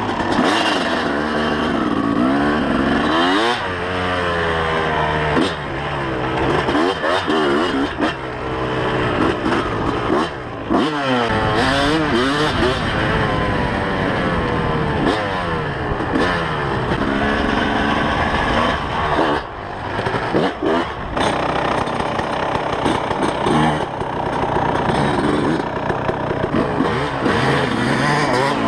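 2003 Kawasaki KX250's single-cylinder two-stroke engine being ridden hard, revving up and down over and over as the throttle is opened and shut. There are a few brief drops where the throttle is chopped, around a third of the way in and again past the middle.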